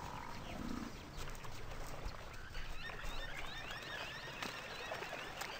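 Outdoor wildlife ambience of many small birds chirping and twittering in short rising and falling calls, busiest in the second half, with a couple of faint knocks.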